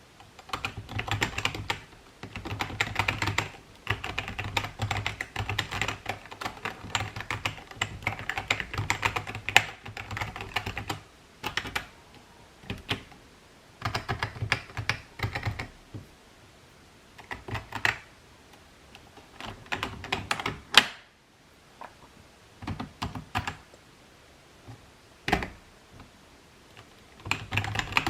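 Typing on a 1998 computer keyboard: runs of rapid key clicks broken by short pauses, with a few single, louder key strokes standing out.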